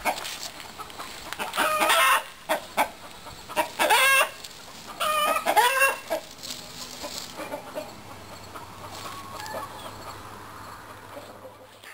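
Chickens clucking: several short calls in the first half, then only low background noise.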